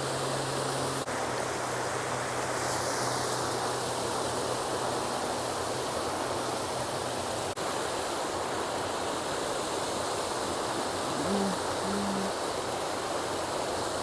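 Steady rush of water pouring through a small spillway out of a pond.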